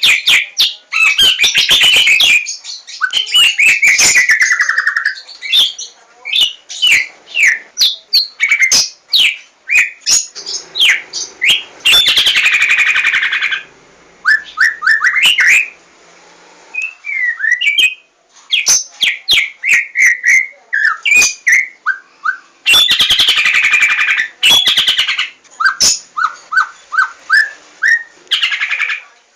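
Javan white-rumped shama (murai batu 'larwo') singing a long, varied song: rapid runs of clear sliding whistles and short notes, broken by loud harsh chattering phrases about a second in, near the middle and again a little before the end.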